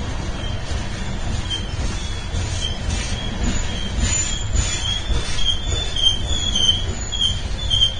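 BNSF freight train rolling past with a steady low rumble, its wheels giving short high-pitched squeals that come and go, more often in the second half.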